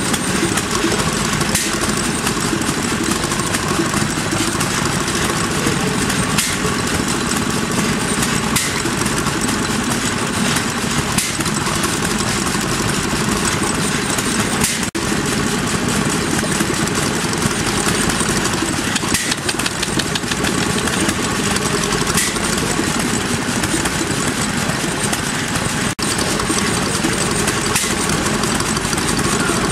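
Small vintage stationary engines running steadily, with a brief break in the sound about halfway through and again a few seconds before the end.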